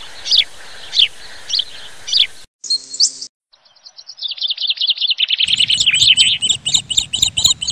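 Songbirds calling: first a series of short, high, falling chirps about twice a second, then after an abrupt break a brief rising whistle and a fast, dense twittering that grows fuller. The pieces start and stop suddenly, as if cut together.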